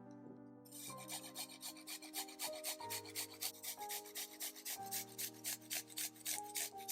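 Rapid, even scraping strokes, about six a second, like a utensil mixing in a bowl, over soft background music.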